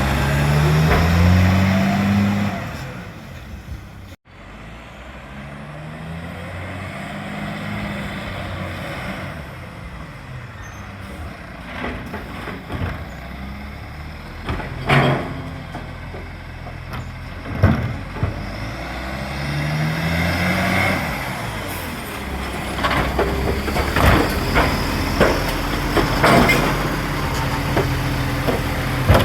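Side-loader recycling truck with an exhaust leak, its diesel engine revving up and settling several times. Several sharp knocks come in the middle and near the end.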